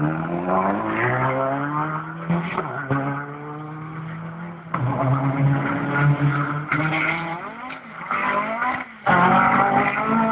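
Rally car engines revving hard, the pitch climbing and falling repeatedly as they pull through the gears. A fresh loud burst comes about nine seconds in.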